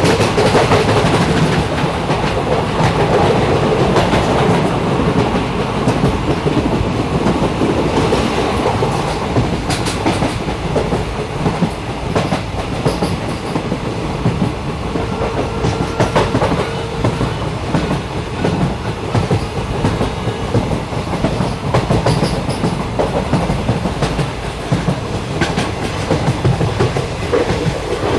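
Steady rumble and rattle of a moving train, with scattered clicks of the wheels over rail joints.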